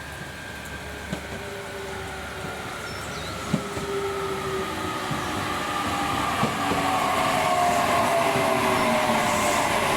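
A train pulling into the station, growing steadily louder, with a whine of several tones falling slowly in pitch as it slows. A sharp click sounds about three and a half seconds in.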